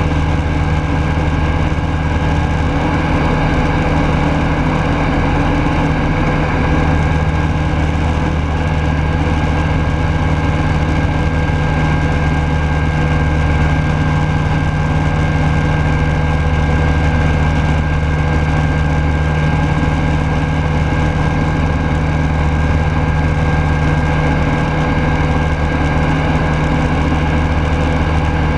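Rans Coyote S6 ultralight's Rotax 912S four-cylinder engine running steadily in flight, heard loud and even from on board.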